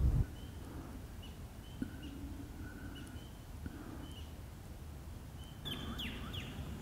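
Birds calling: short high chirps repeat about every half second, and near the end a few louder notes slide downward over a slightly louder outdoor background.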